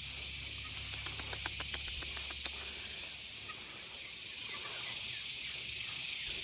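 Chorus of cicadas (called locusts locally) making a steady high-pitched drone, with a quick run of light clicks about a second in.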